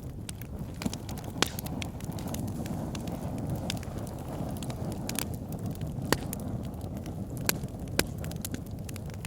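Backyard fire pit crackling: a steady low rumble with constant small ticks and a handful of sharp pops, the loudest about a second and a half in and again around six and eight seconds.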